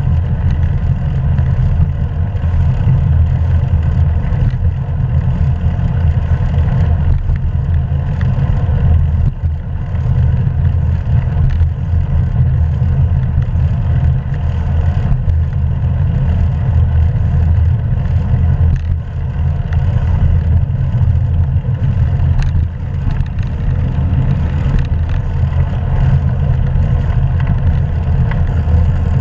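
Steady low rumble of wind and road noise on a GoPro's microphone while riding a hybrid bicycle.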